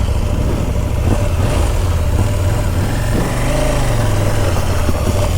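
KTM Duke motorcycle engine running hard under throttle on a steep, rooty hill climb, its pitch rising and dipping slightly about three to four seconds in. The rear wheel is spinning and the bike is losing momentum on the climb.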